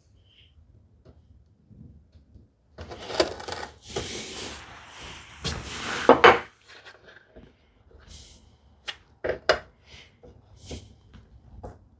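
Handling noises of a brass hinge against the wood of the cherry lid as it is test-fitted in its recess: a few seconds of scraping and rubbing, then several sharp clicks and taps near the end.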